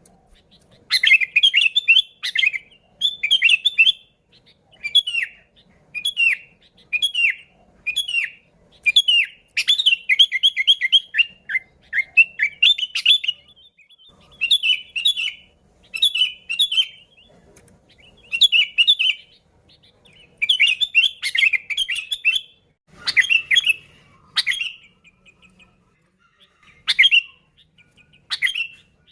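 Sooty-headed bulbul (kutilang) singing: short, quick phrases of whistled, pitch-sliding notes, about one phrase a second. The song thins to a few single calls in the last few seconds.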